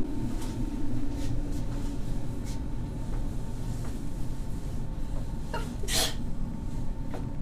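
Berlin S-Bahn train heard from inside the carriage, running with a steady rumble and a faint whine as it pulls into an underground station, with a short hiss about six seconds in.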